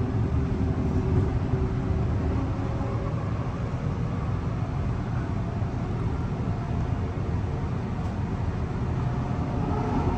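Electric passenger train running: a steady low rumble with faint steady motor tones above it, one of them growing clearer near the end.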